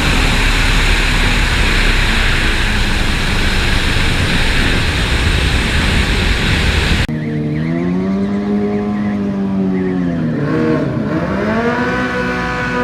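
Drag-racing motorcycle engines. For the first seven seconds there is loud, dense engine noise. It then changes abruptly to a single engine with a clear pitch that sags, dips sharply and climbs again as the throttle is worked.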